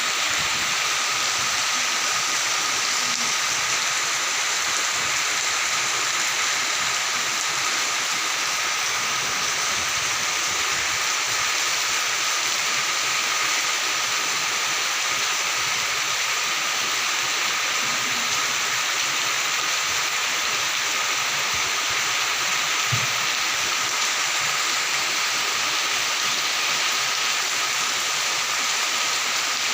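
Steady heavy rain falling in a forest, an even hiss, with faint high-pitched tones running steadily through it.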